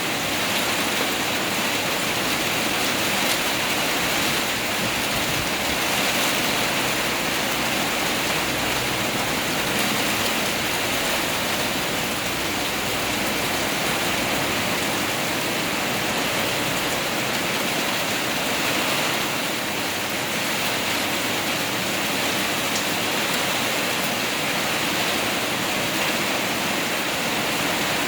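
Heavy rain pouring down steadily in a windy storm.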